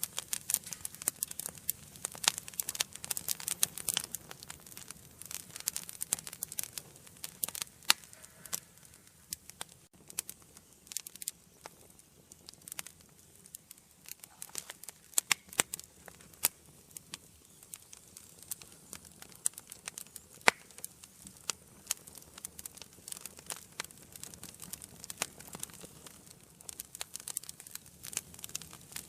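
Wood fire burning in a fireplace: steady irregular crackling and popping of burning logs over a soft low rush of flame, with a few sharper, louder pops now and then.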